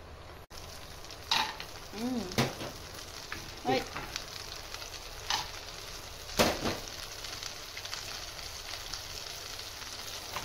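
Cashews and almonds frying in foaming melted butter in a nonstick pan, sizzling steadily, with a wooden spatula scraping and knocking against the pan every second or two.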